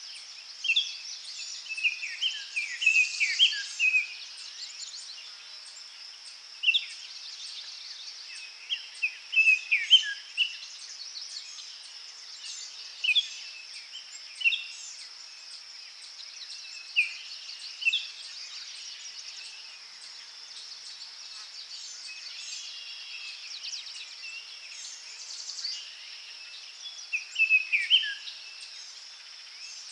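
Forest ambience: songbirds sing short phrases of quick falling notes every few seconds over a steady, high-pitched insect drone.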